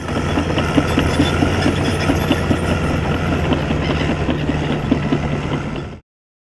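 A heavy engine idling: a steady low rumble with a regular pulsing beat, cutting off abruptly about six seconds in.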